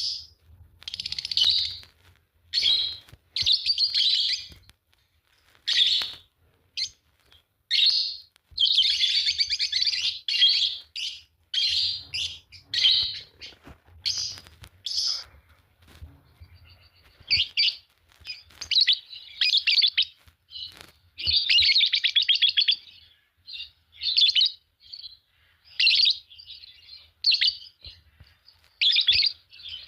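A pair of Fischer's lovebirds chirping and chattering, short harsh high-pitched calls in quick irregular bursts with some longer runs of chatter.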